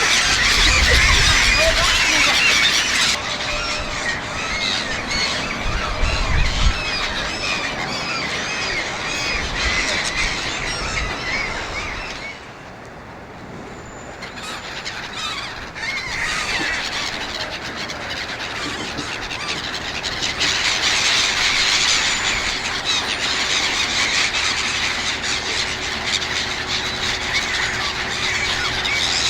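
A flock of black-headed gulls calling, many short squealing cries overlapping at once. The calls thin out briefly about halfway through, then the flock is loud again.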